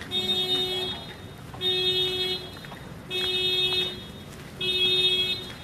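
A car alarm sounding the car's horn in a steady on-off rhythm: four identical blasts of one steady pitch, each under a second long, about one every second and a half.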